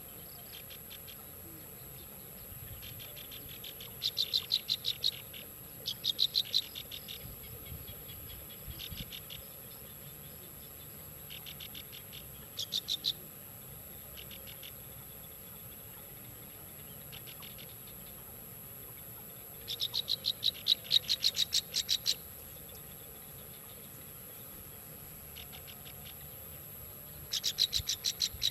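Bird calls: short trains of rapid, clicky chattering notes repeated every few seconds, the longest and loudest about two-thirds of the way through, over a steady high-pitched whine.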